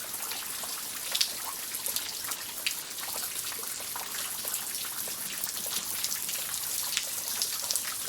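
Steady rain falling, with many separate drops ticking sharply on nearby surfaces; two drops land louder about a second in and again a couple of seconds later.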